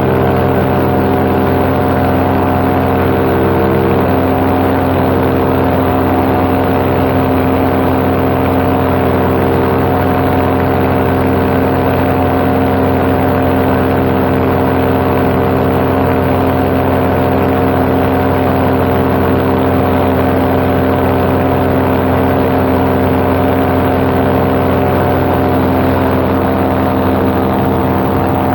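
Paramotor engine and propeller running at a steady cruise throttle in flight, a continuous even drone with wind noise over it.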